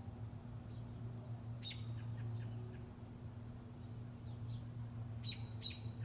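Small bird chirping: a few short, sharp chirps about a second and a half in and again twice near the end, over a steady low rumble.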